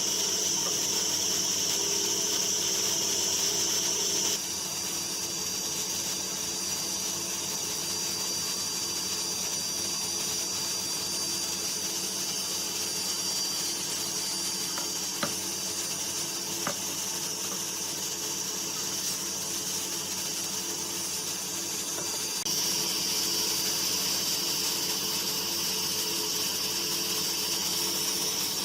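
A woodworking power tool running steadily on wood, dropping slightly in level about four seconds in and rising again near the end, with a couple of faint clicks in between.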